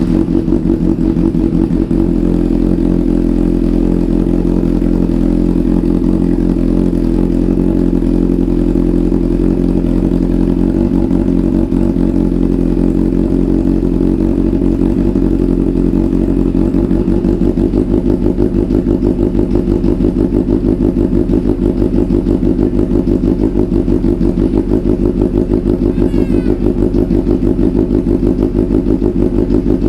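Yamaha FJ1200's air-cooled inline-four engine idling steadily just after being started, warming up from cold.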